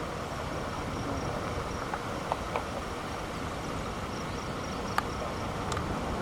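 Insects chirping outdoors: a faint, evenly pulsing high trill over a steady low background of wind-like noise, with a few short clicks.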